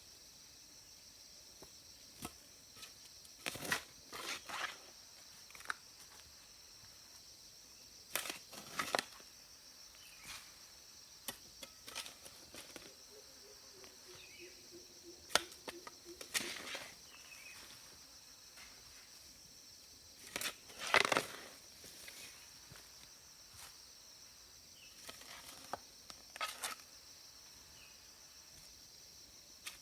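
A steady high-pitched insect drone, with irregular short scraping and crunching noises every few seconds. The loudest noise comes about twenty-one seconds in.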